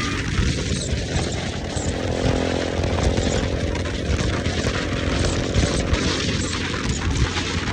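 Motorcycle engine running steadily while riding, mixed with heavy wind noise.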